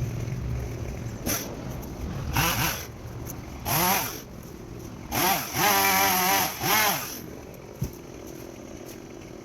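Stihl chainsaw running with several short throttle bursts, each pitch climbing and falling back. The longest burst comes around the middle.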